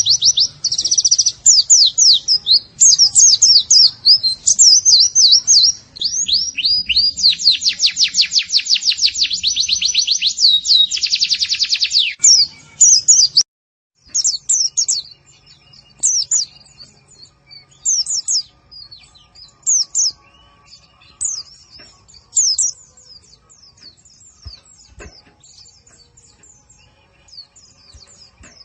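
Recorded song of a pleci (white-eye): a dense run of rapid, high chirps and a fast trill, breaking off briefly about halfway through, then sparser, quieter chirps.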